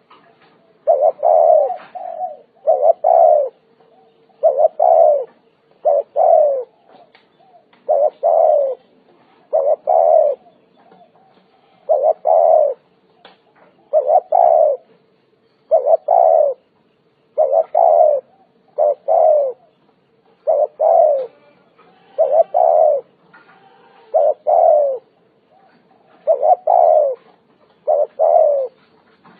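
Spotted dove cooing over and over: short rounded coos, often in close pairs, coming every second or two.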